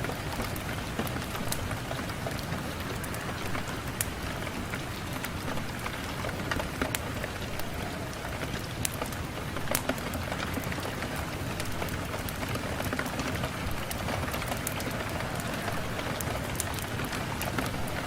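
Steady rain on a window, a continuous hiss with scattered sharp ticks of drops.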